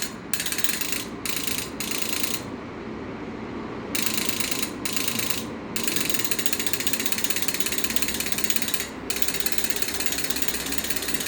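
Scania unit injector solenoids clicking in fast, even succession, driven by an engine control module from a simulated crank and cam signal. The clicking breaks off briefly several times, once for over a second; these misses are put down to the other engine sensors not being connected.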